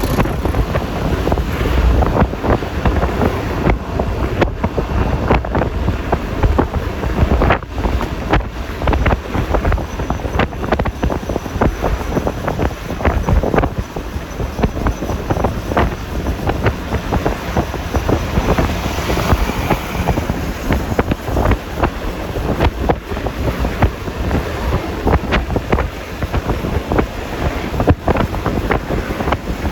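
Wind buffeting a phone microphone on a moving Yamaha Lexi LX 155 scooter, over its engine and tyre noise on the road.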